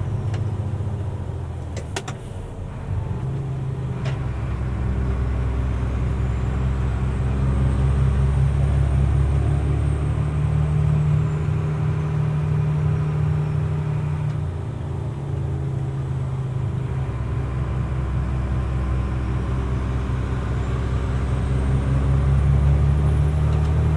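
Mercedes-Benz Unimog U500's inline-six turbo diesel pulling on the road, heard from the cab. The engine note drops twice, about two seconds in and around the middle, as at gear changes, and builds again each time. A faint high turbo whistle rises in pitch as the engine pulls. There are a couple of brief clicks early on.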